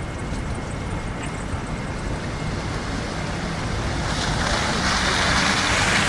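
Outdoor noise in a snowstorm: a steady low rumble, with a rushing hiss that swells up about four seconds in.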